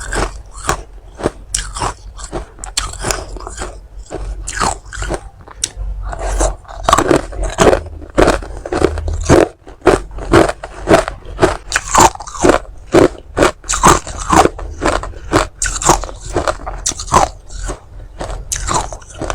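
Close-miked chewing of hard ice: a steady run of sharp, crunchy bites, several a second.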